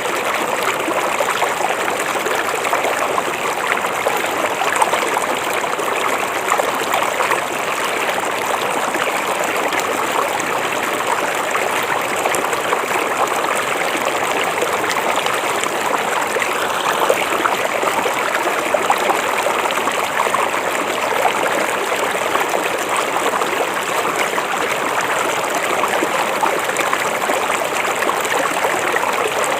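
River water flowing over stones, a steady rushing and trickling without pause.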